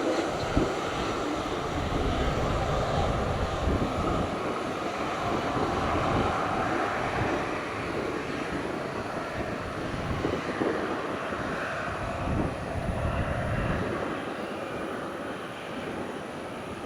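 Jet airliner engines rumbling as the aircraft passes, with the noise slowly fading over the last few seconds.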